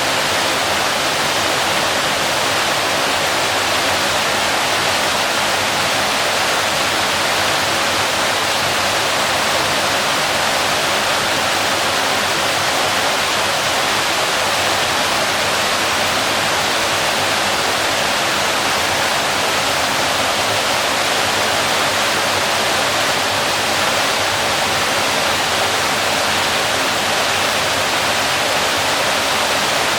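Waterfall: water falling and splashing in a steady, unbroken rush, strongest in the middle and upper range.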